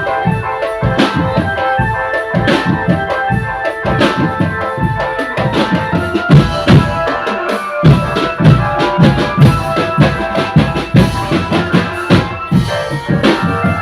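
Drum band playing: dense, loud drumming on bass and snare drums under a repeating melody, with the low drums dropping out for a moment just before the beat comes back in.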